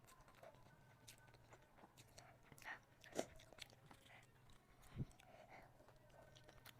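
Faint eating sounds: a person chewing, with scattered small mouth clicks, a sharper click about three seconds in and a soft low thump about five seconds in.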